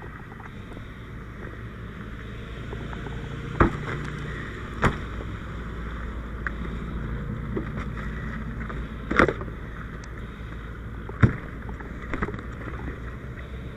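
A vehicle engine runs steadily as a low rumble, broken by four sharp knocks or clanks spread through the stretch.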